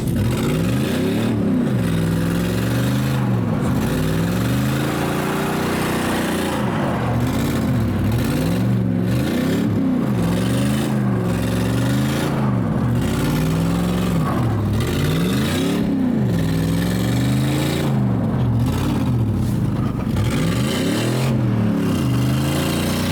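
Truck engine revved over and over, its pitch rising and falling every second or two, as repeated bursts of throttle break the rear wheels loose to drift on an icy road.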